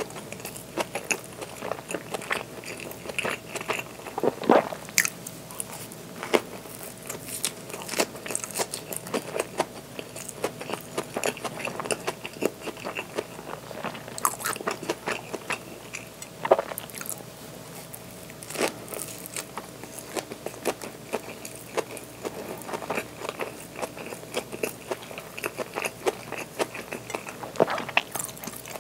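Close-miked chewing and biting of a soft tortilla wrap filled with lettuce: a steady run of small crunching and crackling mouth sounds, with a few louder bites.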